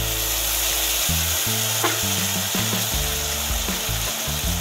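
Chopped onion, garlic and capsicum sizzling steadily in hot oil in a wok, with tomato and soy sauce just added.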